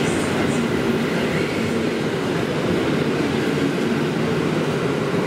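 Passenger coaches of a departing train rolling slowly over the rails: a steady rumble.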